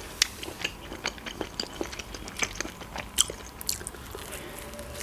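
A person chewing pizza close to the microphone, a string of small crunchy, wet mouth clicks, taking another bite of the slice.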